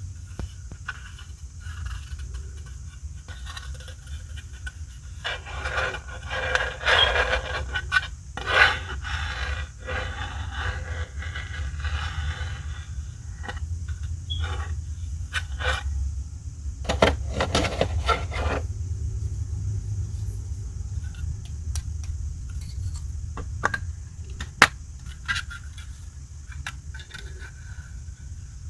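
Hands handling the plastic parts and packaging of a boxed collectible figure: scattered clicks and taps, with three stretches of denser rustling and scraping, over a steady low hum.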